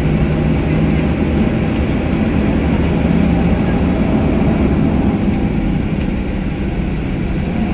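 Cabin noise inside a Boeing 737-700 taxiing: its CFM56-7 jet engines running at low power, a steady low rumble with a faint hum.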